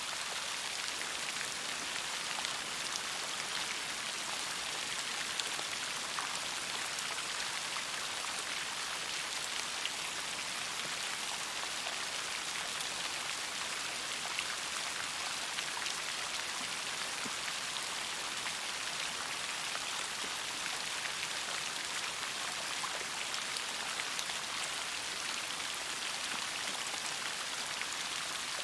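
Steady rain: an even hiss with many small, separate drop ticks scattered through it.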